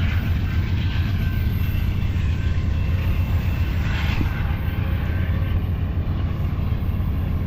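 Amtrak California Zephyr passenger train rolling out, a steady low rumble with no pauses or single knocks standing out.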